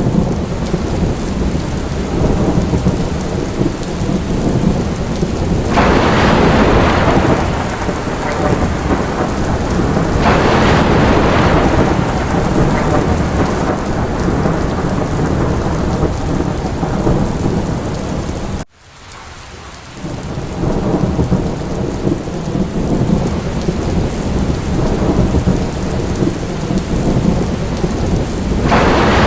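Steady heavy rain with a low rumble of thunder underneath, swelling louder three times, about six seconds in, about ten seconds in and near the end. A little past halfway the sound drops away abruptly and builds back up within about a second.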